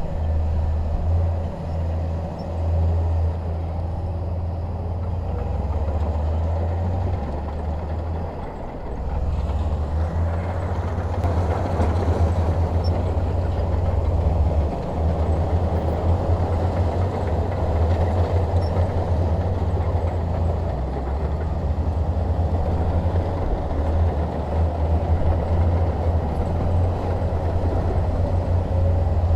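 Bulldozer's diesel engine running steadily under load, with a low, continuous drone and rattling from the machine.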